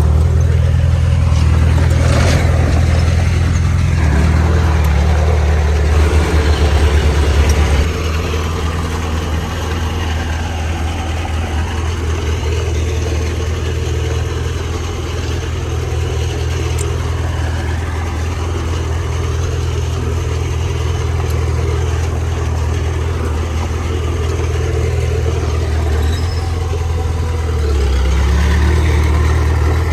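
Heavy diesel engine of earthmoving machinery running steadily under load, pulling harder a few seconds in and again near the end.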